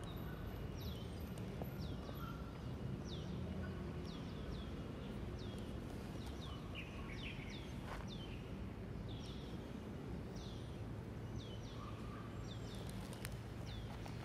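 A bird calling over and over, a short falling high note repeated about once or twice a second, over a steady low background rumble.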